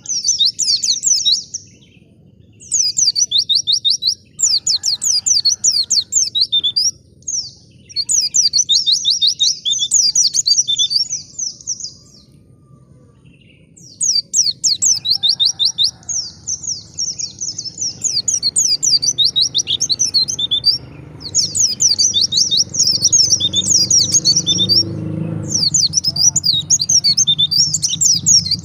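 White-eye (pleci) singing: fast, high-pitched twittering phrases in bouts of a few seconds, with short pauses and one longer break near the middle. A low background rumble rises in the second half and drops away near the end.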